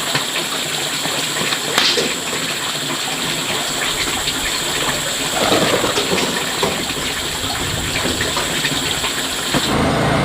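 Steady rushing noise of running water. It changes abruptly near the end.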